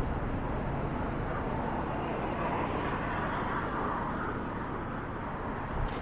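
Steady city road traffic: cars and buses running along a busy downtown street, a continuous even rumble with no single vehicle standing out.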